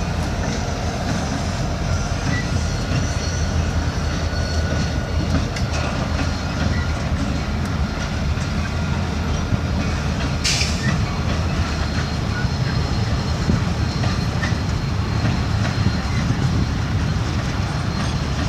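Short local freight train's cars rolling past with a steady rumble of wheels on rail. There is a brief high screech about ten seconds in.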